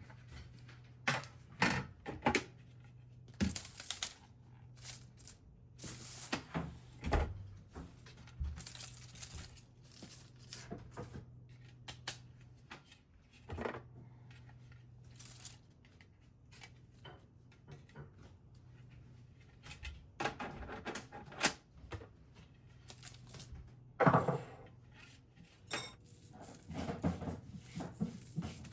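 Scattered light clicks, knocks and rustles of small things being handled, over a faint steady low hum that fades about two-thirds of the way through.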